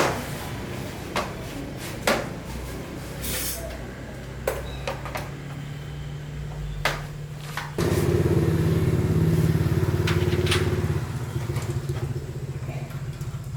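Small motorbike engine running steadily, with sharp clicks and knocks over it. About halfway through it suddenly gets louder for roughly three seconds, then drops back.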